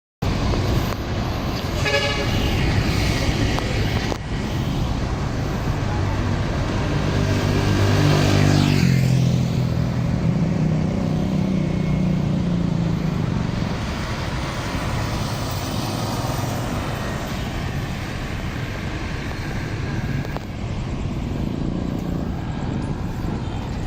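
Heavy road traffic with trucks passing: a horn sounds briefly about two seconds in, and a truck's engine note rises and then falls away as it goes by, over a steady rumble of traffic.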